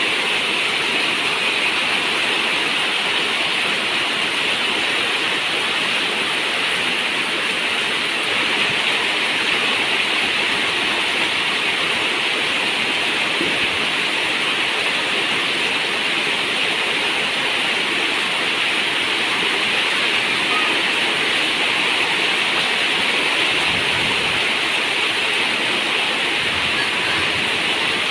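A steady, even rush of water with no separate drops, pauses or changes.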